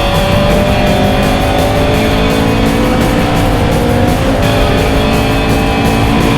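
Race car's Vauxhall C20XE 'red top' four-cylinder engine running hard on track, with the engine note changing about four seconds in. Music plays over it.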